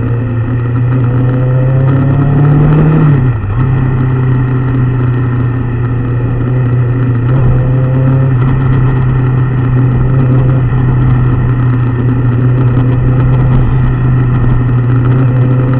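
An engine running steadily. Its pitch rises slightly until about three seconds in, then drops back and holds steady.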